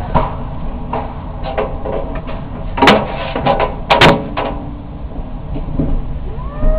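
Homemade tornado simulator running with a steady rush of moving air, broken by a series of knocks and scrapes as the camera bumps against the enclosure, the loudest about three and four seconds in. Near the end a hum starts, rising briefly in pitch and then holding steady.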